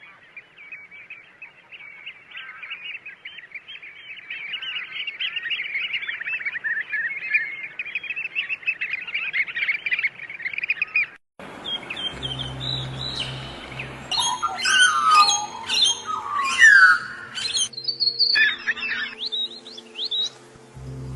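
Many small birds chirping in a dense, continuous chorus of quick high notes. After an abrupt cut about halfway through, louder and more varied bird calls with sweeping notes follow, over a steady low hum.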